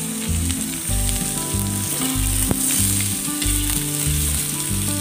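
Sliced onion, garlic and ginger sizzling steadily in hot oil in an aluminium wok as they are stirred with a metal spatula, with a single sharp clack about halfway through. A steady low bass line of background music runs underneath.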